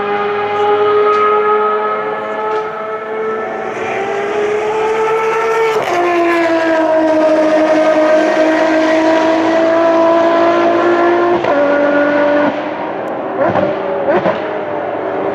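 Ferrari race car engines at high revs, a loud sustained note that drops sharply in pitch as a car passes about six seconds in, and again about eleven seconds in. Near the end a further car's engine note sweeps briefly up and down.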